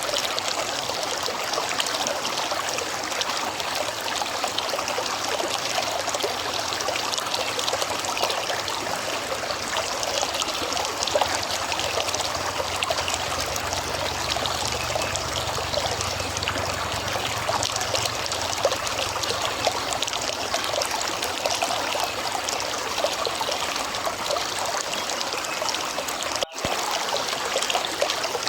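River water flowing steadily with a trickling, babbling rush. A faint low rumble sits under it for a few seconds mid-way. The sound breaks off for an instant near the end.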